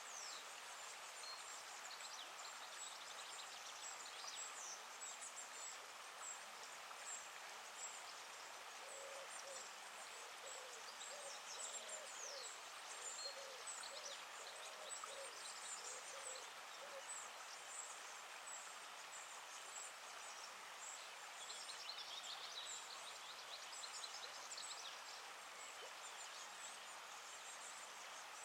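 Riverside nature sounds: the steady rush of river water with many birds chirping high and thin. In the middle comes a run of low repeated calls, about two a second.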